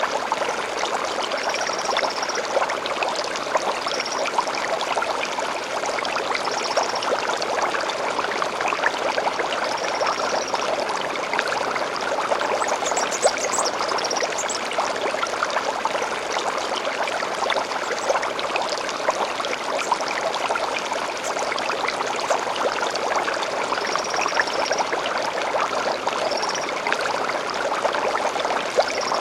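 A small stream flowing steadily over stones. Short high bird chirps come every few seconds, with a brief burst of twittering about halfway.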